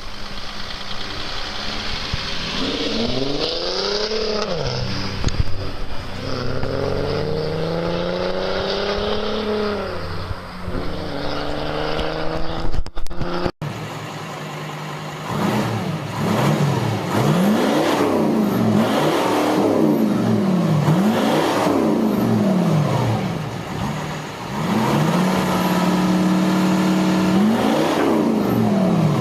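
Diesel car engines with loud, straight-piped exhausts being revved. First come a few slow rev climbs and falls. After a sudden cut, a different car gives a string of quick blips up and down, then holds a steady higher rev near the end.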